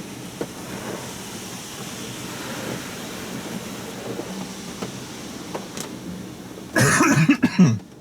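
Touch-free Oasis Typhoon car wash spraying water over the car, heard from inside as a steady hiss with a few faint ticks. About seven seconds in, a person coughs loudly for about a second.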